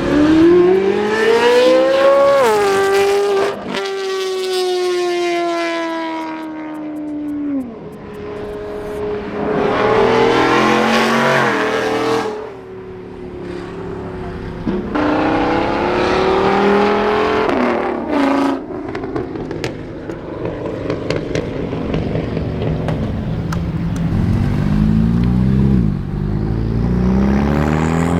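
Car engines revving and accelerating, pitch climbing and falling away several times over, with one long slowly falling note a few seconds in as a car pulls away.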